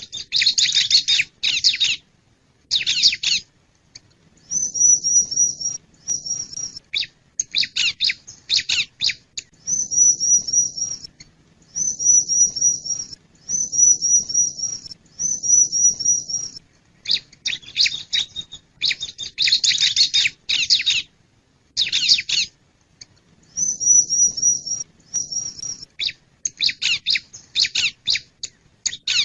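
Bar-winged prinia (ciblek) singing loudly: bursts of rapid, sharp chirping notes alternate with a repeated high trilled phrase about a second long, given several times in a row.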